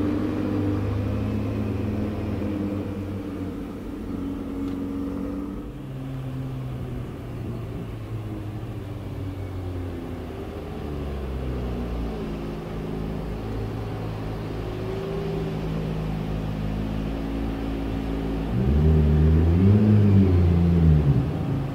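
McLaren P1's twin-turbo V8 running at low revs, its note stepping up and down, then a short rev that rises and falls near the end, the loudest part.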